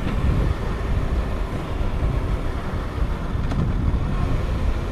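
Riding noise heard through a microphone inside a motorcycle helmet on a Honda CBR1000RR sportbike: steady low wind rush buffeting the helmet, with engine and road noise underneath.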